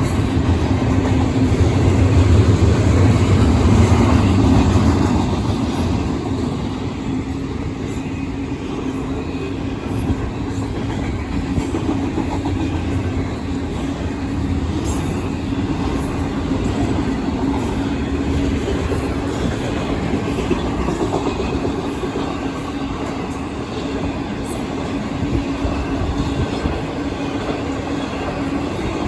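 Union Pacific intermodal freight train's cars rolling past, wheels clacking over the rail joints, with a steady low tone underneath. It is loudest for the first five seconds, then stays steady.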